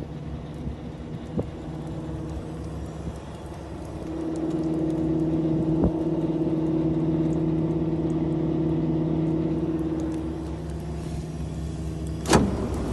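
Scania R-580 truck's V8 diesel engine running steadily. It gets louder about four seconds in and eases off again after about ten seconds. A sharp knock near the end is the loudest moment.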